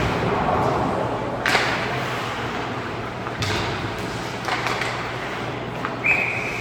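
Ice hockey game in an arena: sharp clacks and thuds of sticks, puck and boards about every one to two seconds over a steady background of crowd and rink noise, then a short high whistle near the end.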